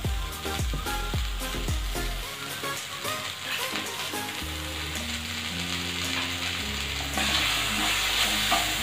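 Diced bell peppers and Schezwan chutney sizzling in a stainless steel kadai as a steel spatula stirs them. The sizzle grows louder about seven seconds in, over soft background music.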